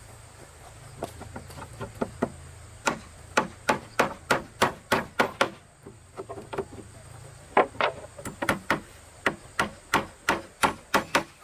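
Repeated sharp knocks of a tool striking wood, in quick runs of about three a second with a short pause about six seconds in.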